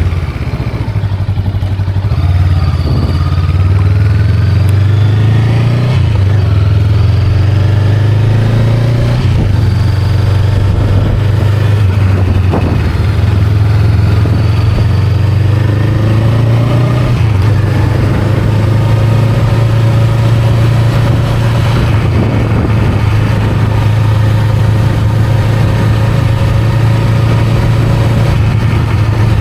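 Honda Rebel 500's parallel-twin engine running on the road, its note rising and falling several times as the rider accelerates and changes gear, with a brief drop in loudness about a second in.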